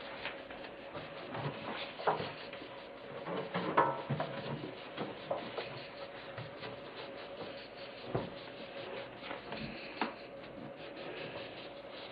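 Cloth wiping the inside of a microwave, with scattered light knocks and bumps against its walls, over a faint steady hum.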